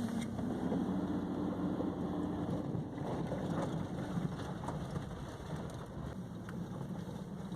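Engine drone and road rumble of a moving car heard from inside the cabin, with the engine note rising a little in the first few seconds.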